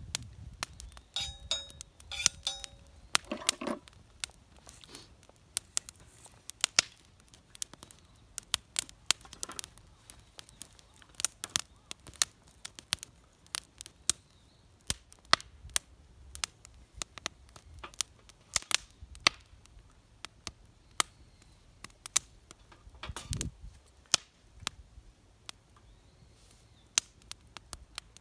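Wood burning in a fire pit, crackling with many irregular sharp pops and snaps.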